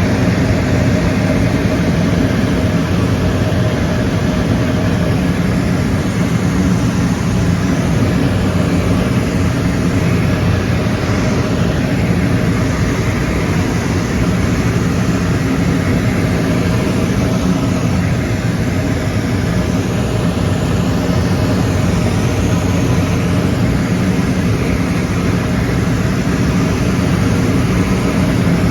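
Airplane cabin noise: a steady drone of the aircraft's engines and airflow, heard from inside the cabin, with a low hum that stays even throughout.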